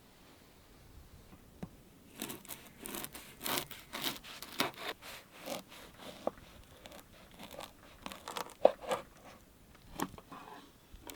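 Crinkling and tearing handling noises: a dense run of irregular crackles starting about two seconds in, thinning out later, with a few sharper clicks.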